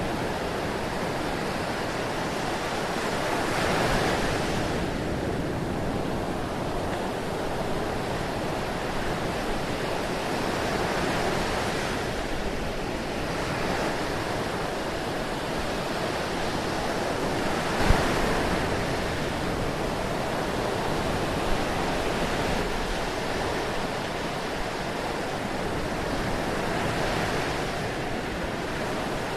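Ocean surf: a steady wash of waves that swells and recedes every several seconds as waves break and run out. A single short click is heard about two-thirds of the way in.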